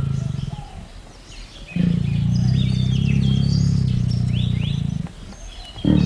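Tiger growling in long, low growls: one fades out in the first second, a second runs from about two seconds in to about five, and a third starts near the end. Small birds chirp at the same time.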